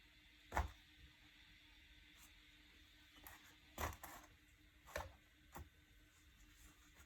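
A few short, sharp clicks and knocks over near-silent room tone, the loudest about half a second in and the rest scattered through the middle: small parts being handled during work on a vacuum cleaner.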